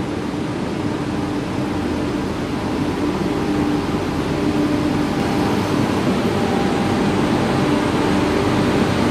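Indian Railways locomotive passing along a station platform, hauling passenger coaches: a steady rumble and hum with a few held tones, growing louder as it goes by.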